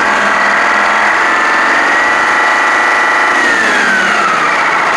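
1984 Detroit Diesel two-stroke engine of a car crusher running, still warming up after a cold start. It runs at a steady speed, then its pitch slides down about three and a half seconds in as the engine slows.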